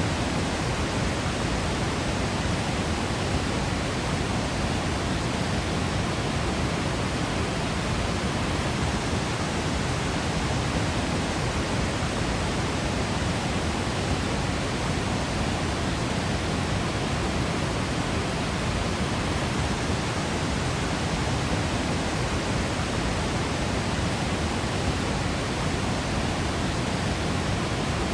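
Steady, even rushing of a Yosemite waterfall, with no change or separate events.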